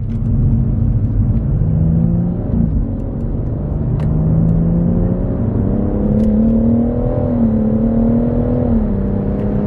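Stage 2 tuned BMW M140i's turbocharged 3.0-litre straight-six heard from inside the cabin, pulling under steady throttle. Its pitch climbs slowly and drops back about two and a half seconds in and again near the end as it shifts up a gear.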